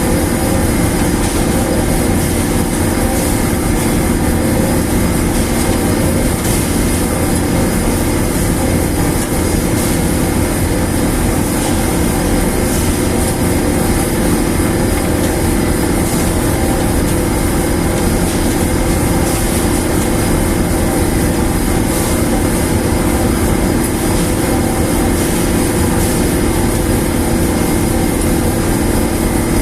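Heavy machinery running steadily and loudly, a constant rumble and hiss with several steady humming tones and no change in speed.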